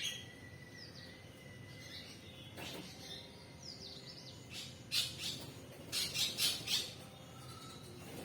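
Birds chirping outdoors: faint quick chirps, then a run of short, sharp calls in the second half.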